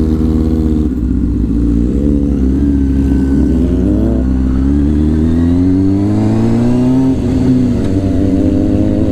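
Sport bike's inline-four engine, a 2006 Honda CBR600F4i, pulling through the gears. Its pitch climbs and drops at each shift several times, with one long slow climb through the middle and a drop near the end before it settles to a steady cruise.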